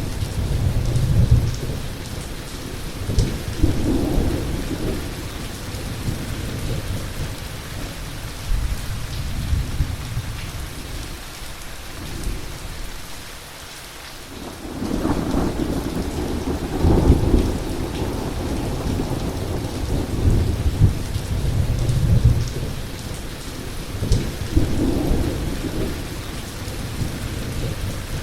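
Heavy rain falling steadily with rolling thunder, the rumbles swelling and fading several times, one longer roll starting about halfway through.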